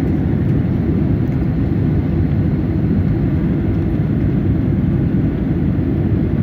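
Steady low roar of an airliner heard from inside the cabin, engine and airflow noise with no change in level.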